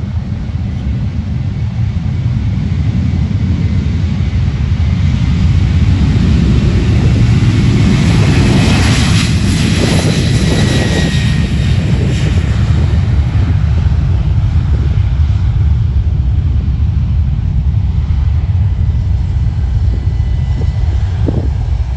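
Fixed-wing aircraft passing by with its engines running; the engine noise builds to a peak about halfway through, then fades, over a steady low rumble.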